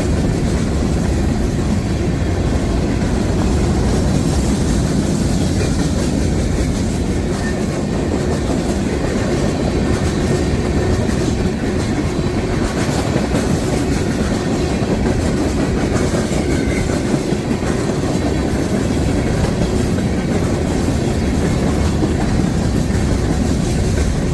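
A train passing with its wheels running steadily on the rails, no horn.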